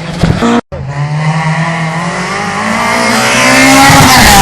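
Rally car engine at high revs, growing louder as the car approaches and passes close about four seconds in, its pitch dropping as it goes by, with tyres squealing through the drift. The sound breaks off briefly just after half a second in.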